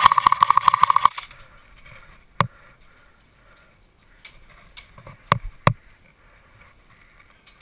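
Airsoft electric gun firing a full-auto burst lasting about a second, the gearbox cycling rapidly, followed by a few single shots spaced out over the next few seconds.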